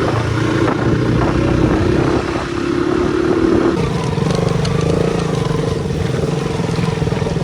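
Motorcycle engine running steadily, its note changing to a different steady pitch about four seconds in.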